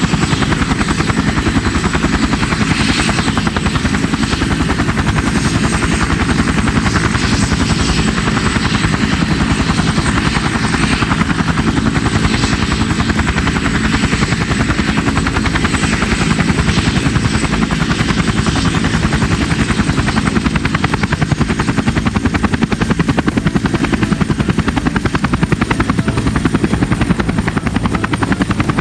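AH-64 Apache attack helicopter in flight, its rotor blades chopping in a fast, even beat, with a steady high whine above.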